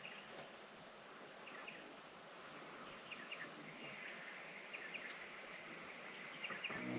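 Quiet outdoor ambience: a bird gives short chirps in twos and threes every second or so over a faint steady hiss.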